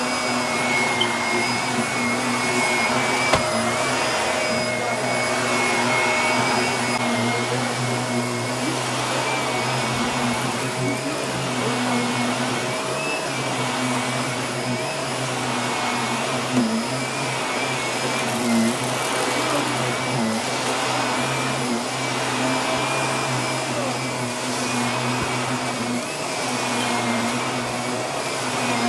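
Vacuum cleaner running steadily, its motor hum and high whine holding level while the sound swells and eases every second or two as it is pushed back and forth over carpet. A few brief clicks of dirt being sucked up stand out.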